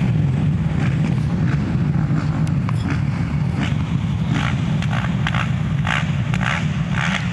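Racing quad engines running together, a steady low drone with short, irregular higher bursts over it.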